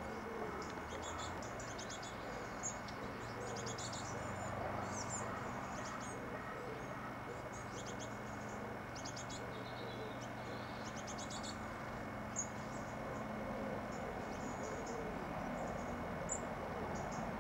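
Small birds calling in short bursts of rapid, very high chirps, recurring every second or two over a steady low hum.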